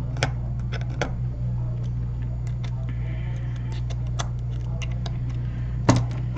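Scattered small clicks and taps of hand tools working on a tablet's internals, the sharpest about six seconds in, over a steady low electrical hum.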